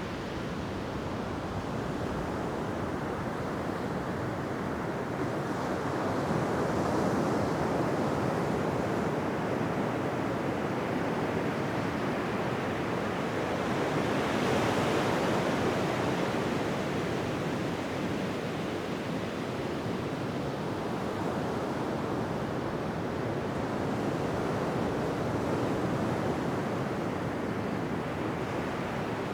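Ocean surf washing onto a beach: a continuous rush of breaking waves that swells gently three times, loudest about halfway through.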